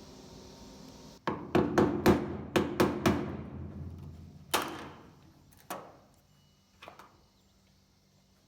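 Hammer blows on metal, each ringing briefly: a quick run of about seven strikes, then three slower single strikes about a second apart.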